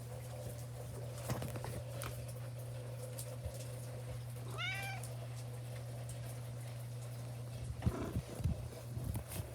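A domestic cat gives one short meow about halfway through, its pitch rising then falling, over a steady low hum. A few soft knocks follow near the end.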